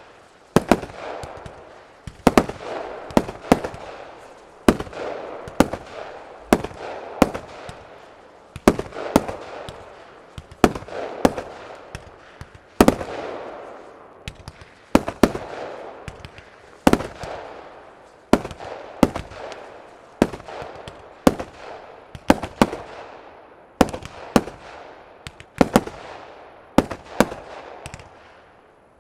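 Fireworks display: shots launched from ground tubes go off in quick succession, about one or two sharp bangs a second, with a hissing, crackling wash between them.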